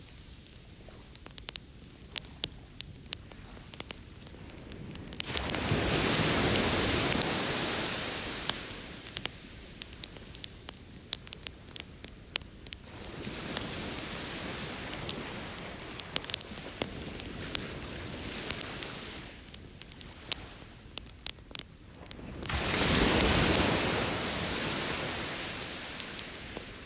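Campfire crackling with frequent sharp pops, over ocean waves washing ashore: three waves swell up and fade, about five seconds in, around thirteen seconds in, and the loudest about twenty-two seconds in.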